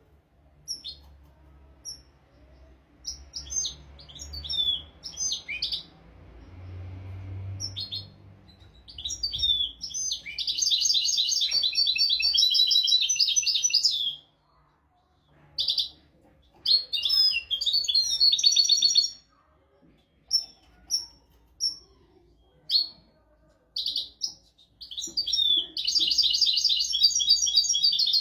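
European goldfinch song: scattered short twittering chirps, breaking into long, rapid, trilled phrases about ten seconds in and again from about twenty-five seconds in.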